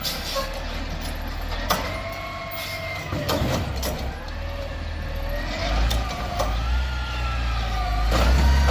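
Refuse truck running with a steady low engine rumble that grows louder near the end, while a whine rises and falls in pitch, typical of the hydraulics working an automated side-loader's arm. A few sharp clunks come through it.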